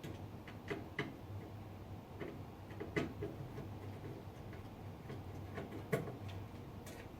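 Scattered small clicks and taps of a screwdriver and screws as a PC motherboard is unfastened from its case, about nine at uneven spacing, the clearest about three and six seconds in, over a steady low hum.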